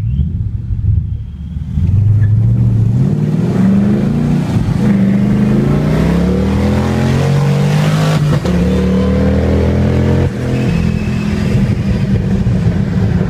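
A car engine at full throttle pulling hard through the gears. Its pitch climbs, drops at each upshift and climbs again, several times over.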